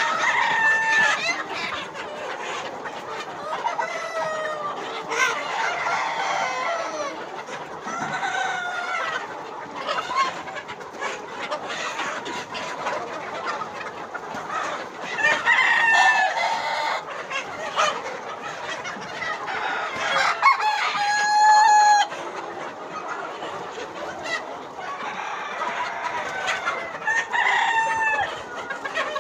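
A flock of Sonali chickens clucking and calling over one another, with roosters crowing; one loud, drawn-out crow stands out about two-thirds of the way through.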